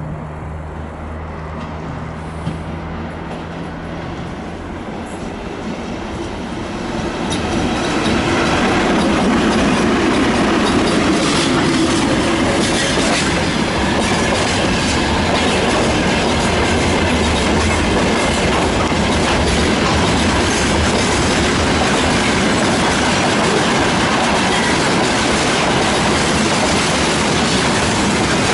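VL80S electric locomotive approaching with a steady low hum. From about seven seconds in, a freight train passes close by: loud, continuous wheel-on-rail noise with repeated clicking of wagon wheels over rail joints.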